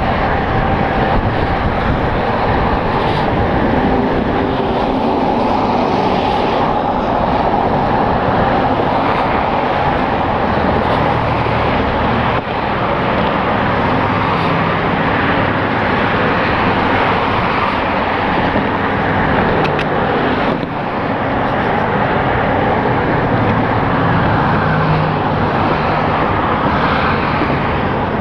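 Steady rush of wind and road noise on a motorcycle rider's camera at freeway speed, with traffic around.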